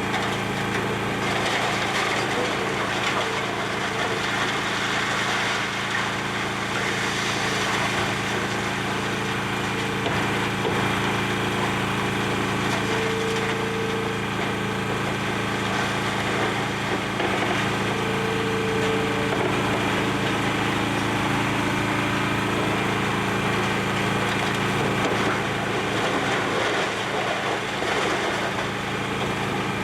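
Demolition excavator's diesel engine running steadily, with continuous cracking and splintering of building debris as the structure is torn apart.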